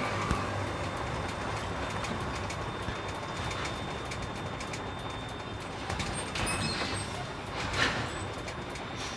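Container truck running, heard steadily from the cab, with scattered clicks and rattles and one louder short knock about eight seconds in.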